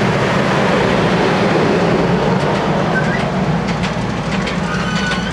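Passenger train cars rolling past: a steady rumble with the clicking of wheels over rail joints from about halfway in, slowly fading.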